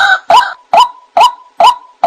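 White-breasted waterhen (ruak-ruak) calling: a loud, regular 'wak' note repeated about two to three times a second, each note sliding up into a short held tone.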